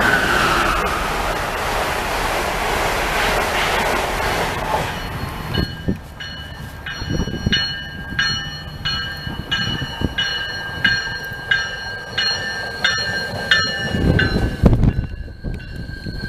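An Amtrak Acela trainset passing at speed, an even rushing noise for about the first five seconds. Then an MBTA commuter train's bell ringing about twice a second as the train pulls in, with low rumbling from the train growing near the end.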